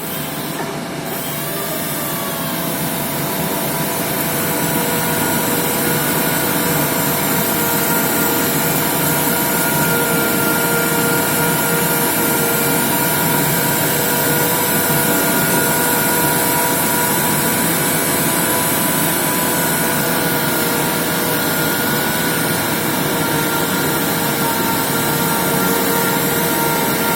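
Electric power sander running steadily, a whine of several held tones over a constant rush of abrasive sanding noise.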